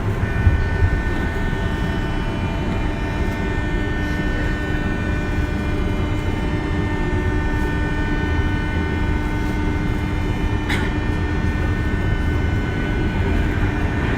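Interior running sound of a JR West 201 series electric train: steady rumble of the wheels on the rails with a steady multi-tone whine from the armature-chopper control and traction motors, fading out near the end. A single sharp clack about eleven seconds in.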